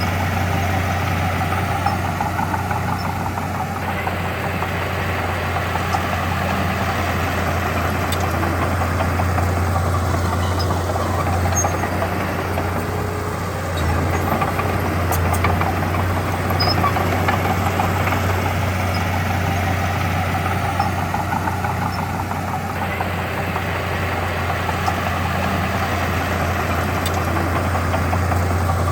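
Diesel engine of heavy earthmoving machinery running steadily with a deep, continuous low hum, easing briefly about halfway through.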